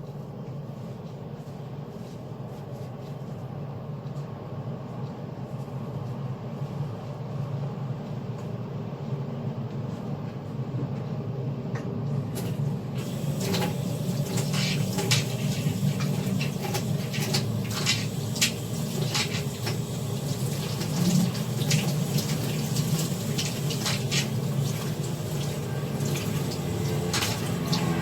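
Water running in a sink, with clinks and knocks of kitchen utensils starting about halfway through.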